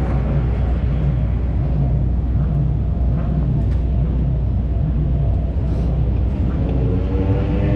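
Steady low engine rumble with a pitched engine note that rises and falls slowly and unevenly.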